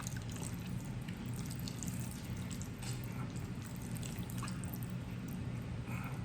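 A person chewing a mouthful of noodles in black bean sauce: faint, scattered wet clicks of mouth sounds over a steady low hum.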